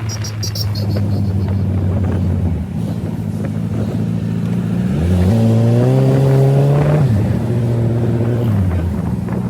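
Suzuki Hayabusa's inline-four engine running while riding at steady revs. About five seconds in it revs up with a rising pitch, holds for a couple of seconds, then eases back down in two steps near the end.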